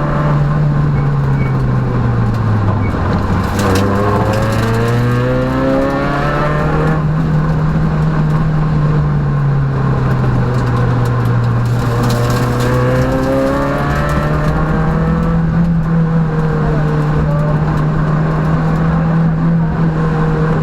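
Peugeot rally car's engine at racing speed, heard from inside the cabin. The revs drop about two seconds in, then climb in rising sweeps around four to seven and twelve to fifteen seconds in as the car accelerates through the gears.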